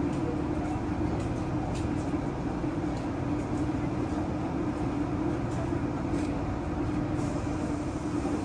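KTX-Eum electric high-speed train standing at the platform, giving off a steady, even hum.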